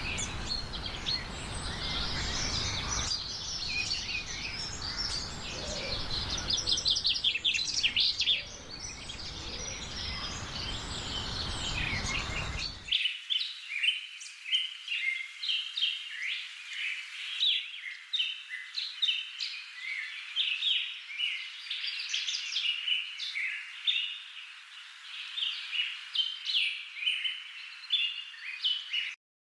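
Songbirds chirping and singing in quick, overlapping short calls. For the first thirteen seconds or so a steady low rumbling noise sits underneath, then it cuts off abruptly and only the chirping goes on.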